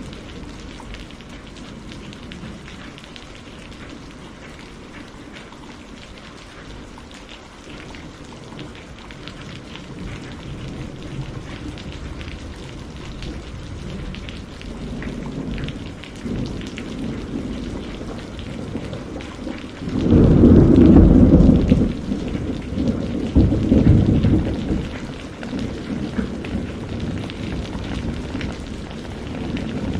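Steady rain falling, with thunder rumbling in that builds through the middle and breaks into a loud low crack and roll about twenty seconds in, followed by a second rumble.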